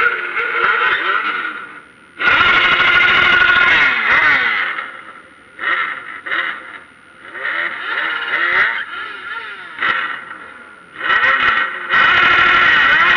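Motorcycle engines revving hard in repeated bursts, the pitch climbing and dropping with each blip of the throttle, with short lulls between.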